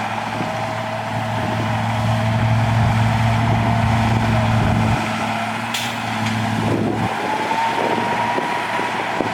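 Heavy earthmoving machinery's diesel engine running steadily, with a thin whine that rises in pitch and holds about seven seconds in. There is a single sharp clank about six seconds in.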